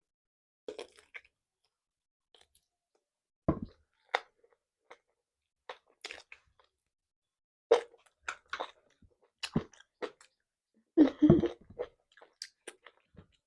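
Close-miked chewing and biting of food: irregular wet smacks and crunches, one every second or so, with a louder cluster of bites a little before the end.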